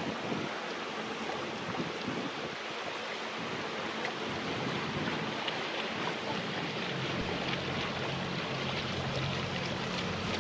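Wind and water noise on the river, with a boat's engine hum coming in about two-thirds of the way through and holding steady.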